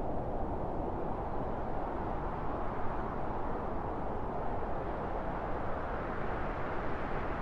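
Strong wind blowing steadily: a low, even rushing noise with no gusts or breaks.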